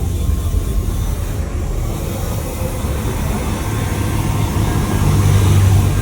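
Jet airliner engines rumbling, a steady low rumble that swells a little louder near the end.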